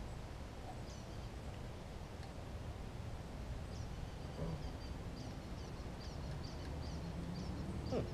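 A small bird chirping, short high calls about two a second starting about four seconds in, over a low steady outdoor rumble.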